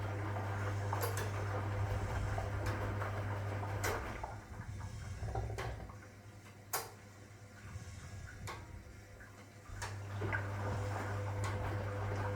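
1961 AEG Lavamat Noris washing machine running its wash: the motor hum stops about four seconds in, pauses for about six seconds, then starts again, the drum resting between turns. Scattered clicks and knocks run through it.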